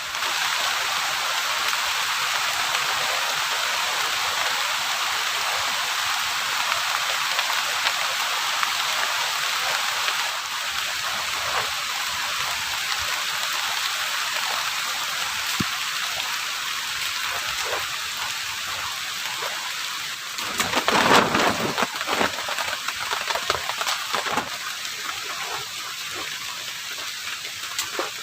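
Heavy rain falling steadily, a dense even hiss of drops, with a louder rush about three-quarters of the way through.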